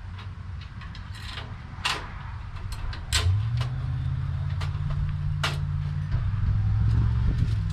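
A few sharp clanks and knocks from metal welding-cart parts being handled and fitted, over a low rumble that becomes a steadier, louder hum about three seconds in.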